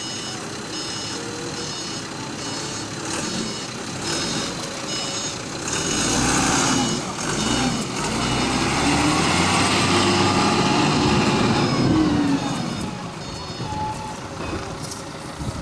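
A vehicle's reversing alarm beeping in a steady series, while its engine runs and grows louder for several seconds in the middle as the beeps are drowned out.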